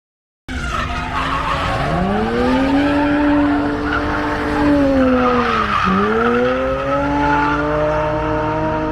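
Drift car's engine revving hard with tyres squealing through a slide. The sound cuts in suddenly half a second in. The engine note climbs, holds, dips sharply near six seconds as the revs drop, then climbs again.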